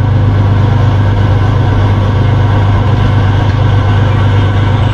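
BMP-2 infantry fighting vehicle's diesel engine idling, a loud, steady low drone.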